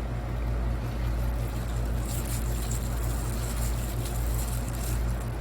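A motor running steadily with a deep, even rumble and a hiss over it.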